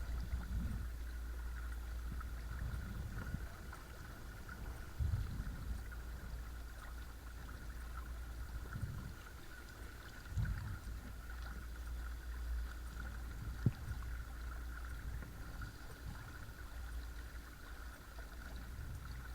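Watersnake T24 12-volt electric trolling motor running steadily with a thin, constant whine over a low rumble of water and wind. Several dull low thumps come through, and there is one sharp click about two-thirds of the way through.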